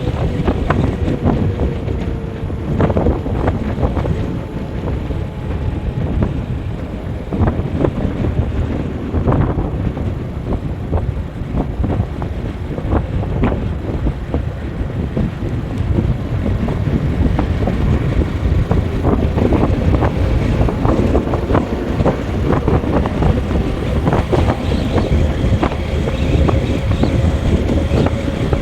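Wind buffeting the microphone of a moving vehicle, with a faint engine note underneath that rises slightly near the end, and occasional bumps.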